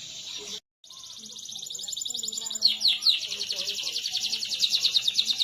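Domestic canary singing: after a brief cut-out about half a second in, a very fast rolling trill, changing near three seconds to a slower roll of repeated downward-sweeping notes that grows louder.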